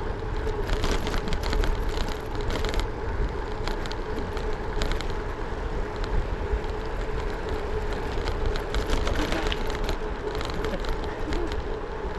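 Gravel bike tyres rolling fast over a rough dirt road, with a steady low rumble and constant rattling clicks as the bike jolts over the surface.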